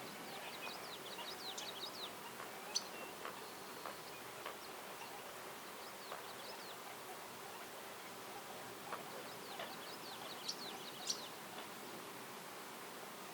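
Songbirds singing in woodland: a quick run of high chirping notes about a second in and another near the ten-second mark, with a few sharp single call notes between, over a steady background hiss.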